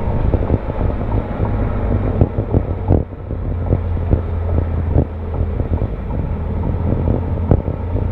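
Exhaust of a Porsche 911 Carrera S (997) 3.8-litre flat-six, heard close to the rear mufflers, running at a steady low pitch with no revving, under many short thumps and clicks of wind buffeting on the exterior microphone.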